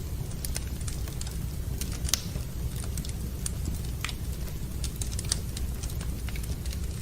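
Wood fire burning in a fireplace: irregular sharp crackles and pops over a steady low rumble, with a louder pop about two seconds in and another a little past five seconds.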